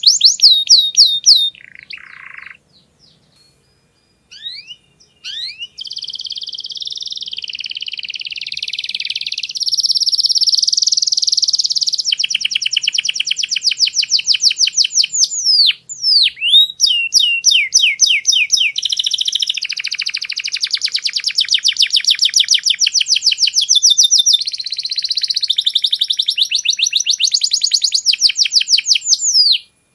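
Domestic canary singing a long, loud song of fast rolling trills and rapidly repeated chirps. It pauses for a few seconds near the start, then sings on and stops abruptly near the end.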